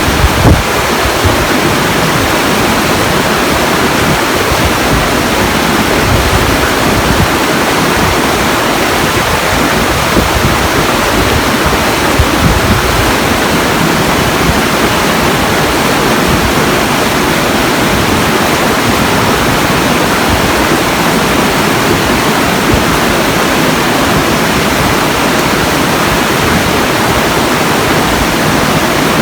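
Steady, loud rush of water with no rise and fall of waves. Wind buffets the microphone with low rumbles through roughly the first dozen seconds.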